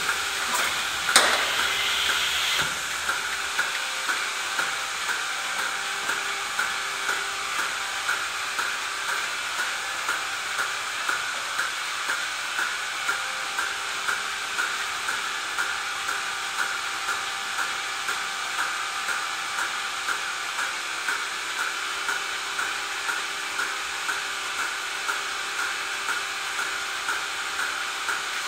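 Steady mechanical hiss with a soft, regular pulse about one and a half times a second, and one sharp click about a second in.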